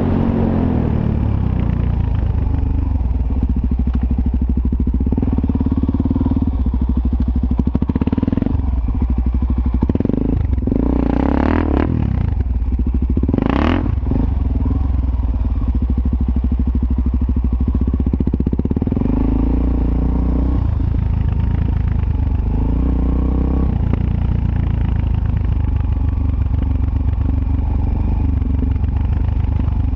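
Suzuki DR-Z400S's single-cylinder four-stroke engine running steadily under way, with two quick revs rising and falling in pitch a little before halfway, heard through a helmet-mounted camera.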